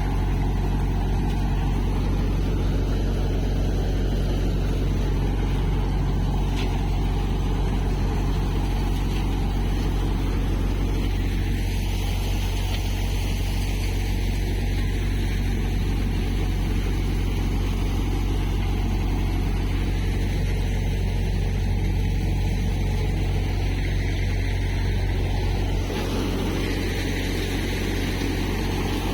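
Tractor engine running steadily with a Malwa multicrop thresher, a continuous deep drone. The lowest part of the drone eases slightly about 26 seconds in.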